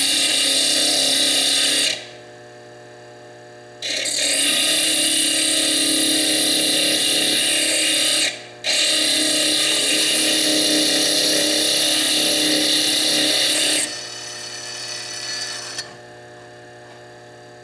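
Foredom bench lathe running a small slitting disc that grinds into fire agate to cut away its chalcedony cap. The grinding comes in three loud, high-pitched bouts: it stops at about 2 seconds and again briefly around 8 seconds, then drops away near the end. The lathe motor keeps humming between and after the bouts.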